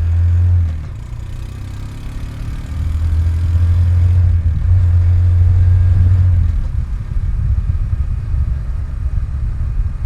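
Small 125 cc single-cylinder motorcycle engine running while riding, heard as a steady low rumble that swells louder for a few seconds in the middle.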